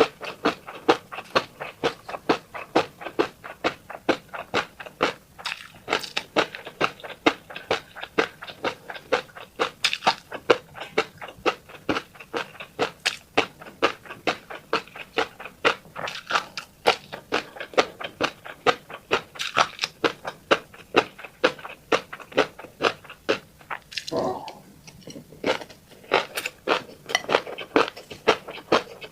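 Chewing of fish roe: steady wet clicks and pops at about three a second. A short hum comes near the end.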